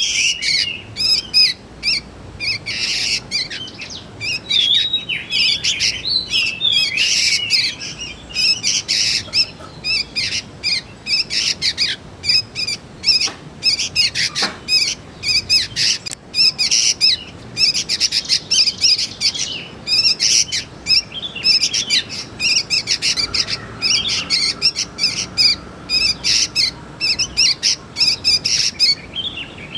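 Young sooty-headed bulbuls (kutilang) calling: a rapid, unbroken run of high chirps, a few a second.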